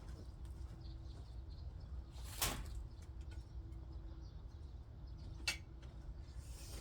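Two short knocks, the first about two and a half seconds in and the second about three seconds later, over a low steady rumble.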